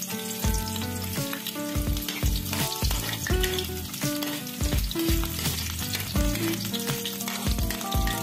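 Garlic and onion sizzling as they fry in hot oil in a wok, stirred with a metal spatula. Background music with a steady beat plays underneath.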